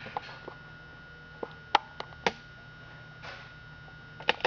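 A few sharp, isolated clicks and taps over a steady low hum.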